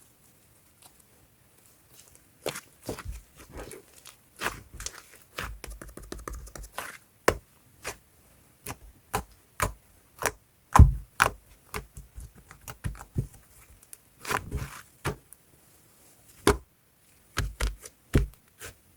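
Green fluffy slime being squeezed and poked by hand, making an irregular run of sticky pops and clicks, the loudest about eleven seconds in.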